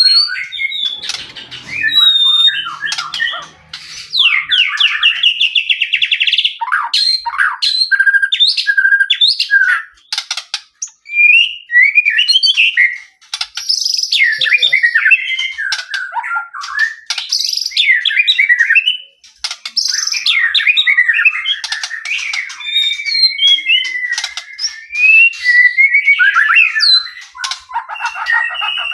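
White-rumped shama (murai batu) singing a long, varied song of whistled notes, rapid trills and harsher chattering phrases, broken by a few short pauses.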